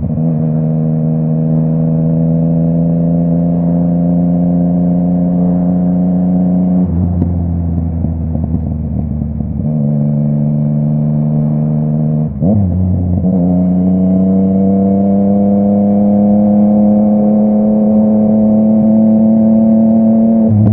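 Yamaha MT-09's crossplane inline-three engine running through a full Akrapovic exhaust while riding: a steady engine note slowly rising in pitch, dropping sharply about a third of the way in and again just before halfway, a quick rev blip just past halfway, then a long slow climb.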